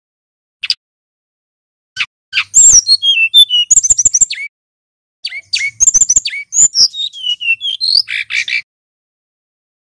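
Male brown-chested jungle flycatcher singing: two quick phrases of high, gliding whistled notes, each a few seconds long, the first beginning about two seconds in and the second about five seconds in, with a few single short calls before them.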